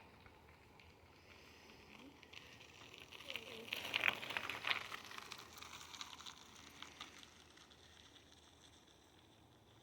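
A bicycle riding past on the trail: tyre noise and a run of clicks that swell to a peak about four seconds in and then fade away.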